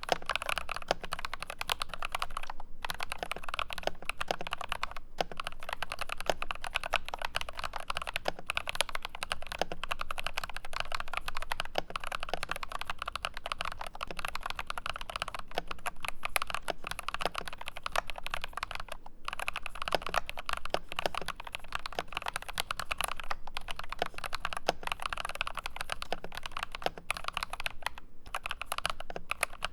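Typing on an IQUNIX ZX75 Gravity Wave mechanical keyboard: a fast, continuous run of keystrokes with a few short pauses.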